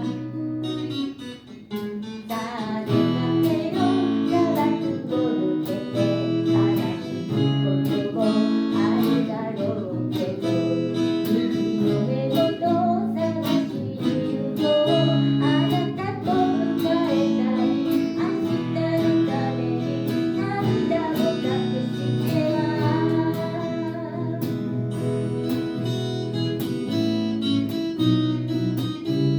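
Acoustic guitar strummed as accompaniment while a voice sings a slow song.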